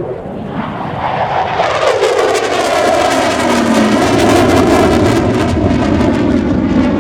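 Mitsubishi F-2B fighter's single F110 turbofan jet engine roaring past in a low fly-by. The roar grows steadily louder while its whine drops sharply in pitch as the jet goes by, then the engine keeps up a loud, crackling roar.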